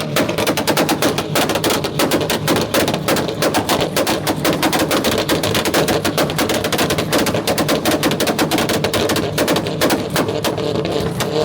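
Volkswagen Golf hatchback's engine held on a two-step launch-control rev limiter, the exhaust popping and banging in a rapid, unbroken crackle over the engine note. The pops stop near the end and the engine settles to steadier running.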